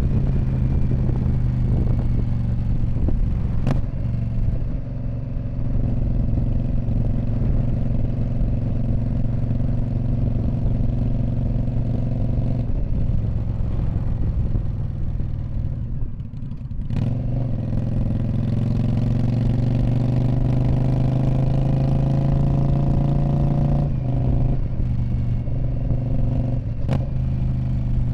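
2019 Indian Scout Bobber's V-twin running through a Freedom Performance Radical Radius exhaust while riding. The engine holds a steady note for long stretches, drops briefly about two-thirds through, then climbs steadily in pitch under acceleration, with short breaks near the end that sound like gear changes.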